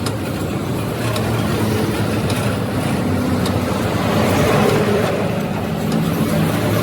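A truck engine running steadily with a low, even hum.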